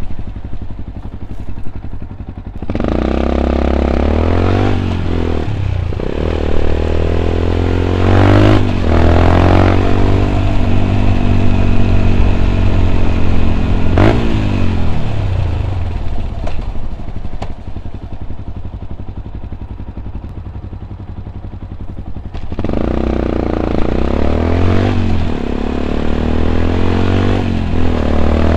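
Yamaha WR 125 X's single-cylinder four-stroke engine, breathing through an Arrow exhaust with its dB killer fitted, accelerating through the gears with short breaks at each shift. Midway it winds down, its pitch falling steadily, then it picks up and runs up through the gears again near the end.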